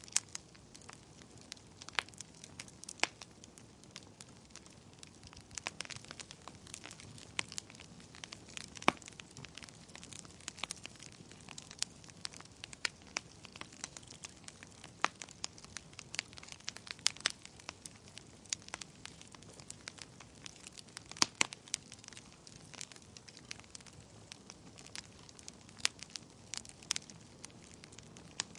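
Wood fire burning in a fireplace: a soft steady hiss of flames with irregular crackles and sharp pops from the burning logs, a few pops much louder than the rest.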